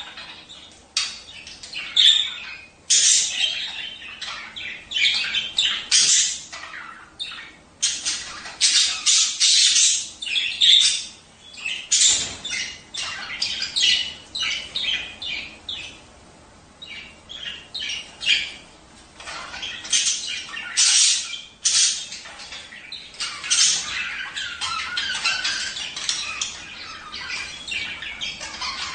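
Several budgerigars chattering, warbling and squawking without pause, short overlapping chirps one after another, the calls of budgies in breeding condition.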